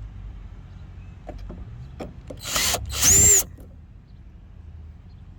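Cordless drill-driver running in two short bursts, the second louder, its whine rising and then falling as it spins up and stops, driving the tail-light screws, with a few light clicks before.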